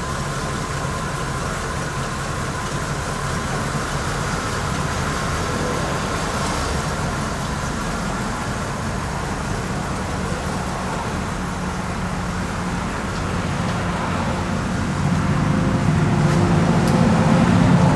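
Car engine running steadily at low speed as the car is moved, growing louder about fifteen seconds in.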